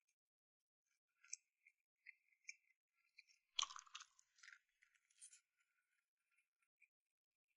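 Faint close-up eating sounds of a person chewing: small mouth clicks and smacks, with a louder crunching burst about three and a half seconds in lasting about a second.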